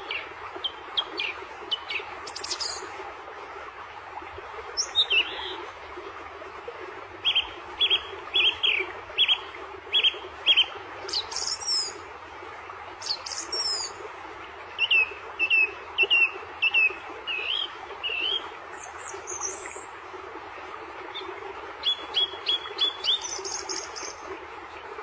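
Songbirds chirping: runs of short, sharp notes repeated in quick series, with a few higher calls between them, over a steady background hiss.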